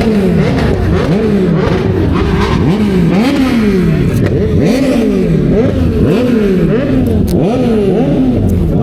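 An engine being revved over and over, about once a second: each throttle blip rises quickly in pitch and falls back more slowly. It runs loud and steady throughout.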